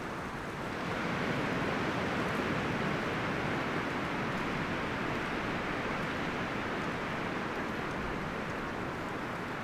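Wind rustling through forest leaves and branches as a steady, even rush, swelling slightly about a second in and then holding.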